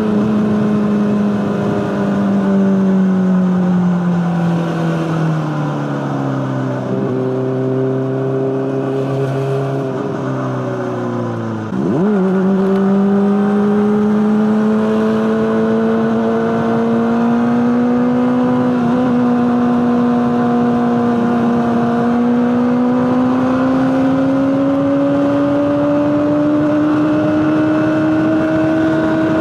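Honda CBR600RR inline-four engine running through an Akrapovic exhaust: the revs sink steadily for about the first twelve seconds, the pitch jumps up abruptly, then the revs climb slowly and evenly to the end.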